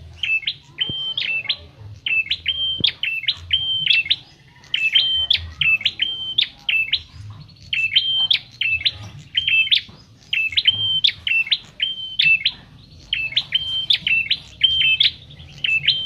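A prenjak kepala merah songbird calling without pause: a rapid series of short, sharp, high chirps, about two to three a second, each note flicking up and down in pitch.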